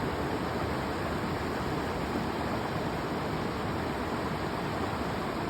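A river rushing: steady, even water noise.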